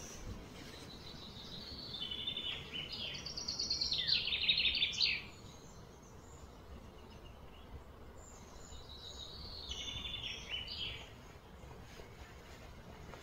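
A bird singing: two phrases of rapid, repeated high notes. The first starts about two seconds in, grows louder and cuts off suddenly. The second, quieter one comes about nine seconds in.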